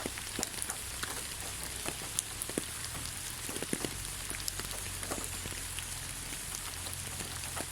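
Rain falling on the ground: a steady hiss with many separate drops striking close by at irregular moments.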